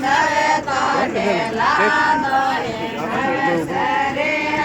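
A group of people singing together in a chant-like folk song, several voices overlapping without a break.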